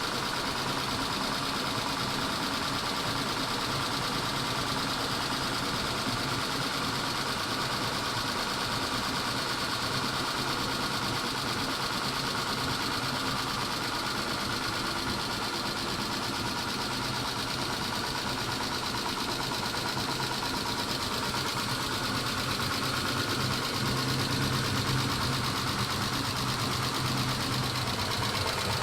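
Mitsubishi 6G72 V6 engine idling with a fast, steady ticking from the valvetrain, a tick the owner blames on the hydraulic lash adjusters while wondering whether the engine itself is worn. It gets a little louder about three quarters of the way through.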